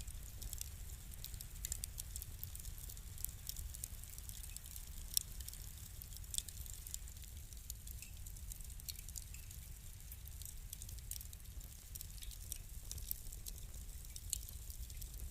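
Fire crackling: irregular sharp pops and snaps over a steady low rumble, with one louder pop about five seconds in.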